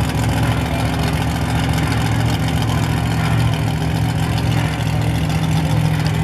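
Monster truck engine running steadily at idle with a deep, even drone.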